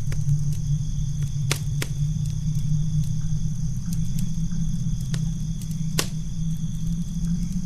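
Campfire crackling: a few sharp pops, the loudest about six seconds in, over a steady low rumble. A steady high drone of crickets runs underneath.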